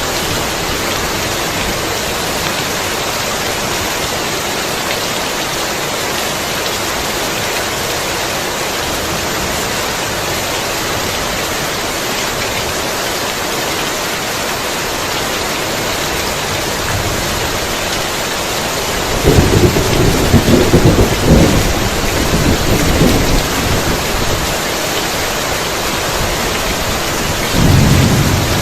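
Heavy rain falling steadily, with a loud clap of thunder rumbling in about two-thirds of the way through and a shorter rumble of thunder near the end.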